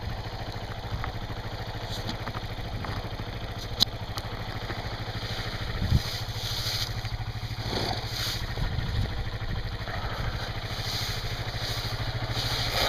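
Honda CRF230L's single-cylinder four-stroke engine idling steadily. A sharp click comes about four seconds in and a thump at about six seconds.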